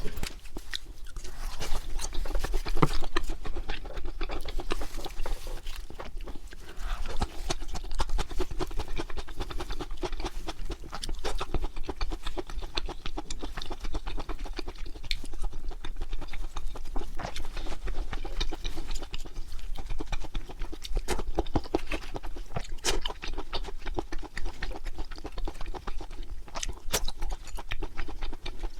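Close-miked chewing of grilled pork large intestine (makchang), a continuous run of small wet clicks and smacks from the mouth.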